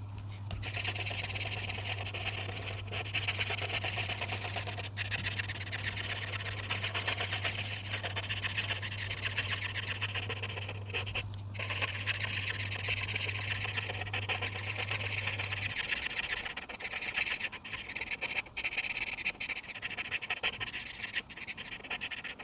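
Rapid back-and-forth strokes of a coloring tool scratching on paper. A low steady hum runs underneath and stops about two-thirds of the way through.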